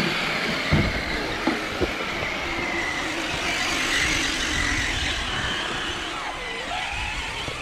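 A radio-controlled scale crawler truck's electric motor and geared drivetrain whining, the pitch wavering up and down with the throttle. There are a few sharp knocks in the first two seconds.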